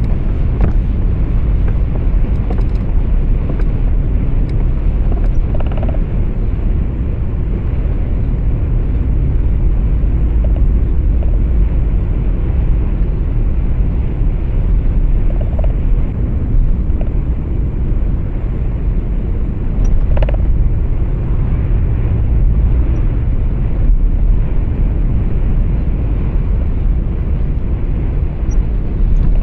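Steady low rumble of a truck on the move, heard inside the cab: engine and road noise together. A few short, faint clicks or knocks come through, the clearest about twenty seconds in.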